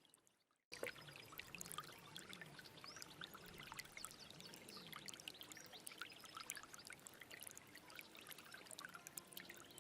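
Small stream of water flowing and trickling, full of fine bubbling and splashing ticks. It is silent at first and cuts in suddenly less than a second in, then runs on steadily.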